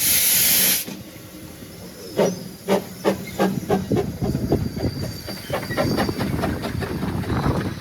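Narrow gauge steam locomotive Maid Marian, a Hunslet 0-4-0 saddle tank: a short, loud blast of steam hiss, then the locomotive moving off, its exhaust beats starting about two seconds in and quickening as it gathers speed.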